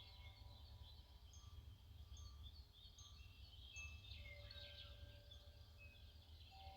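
Faint outdoor ambience: birds chirping with short, high calls, some repeating about once a second, while chime tones ring and linger over a low, steady rumble.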